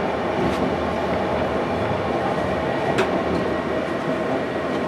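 Passenger train running, heard from inside the carriage: a steady rumble of wheels and running gear, with one sharp click about three seconds in.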